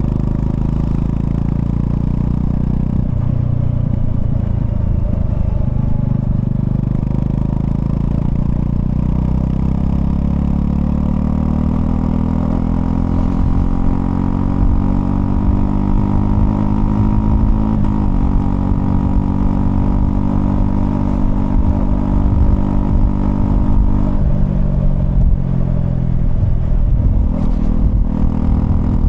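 Honda CL250 motorcycle engine running while riding, heard from the rider's position. Its pitch climbs steadily for several seconds as the bike accelerates, then holds, and falls and shifts a few times near the end.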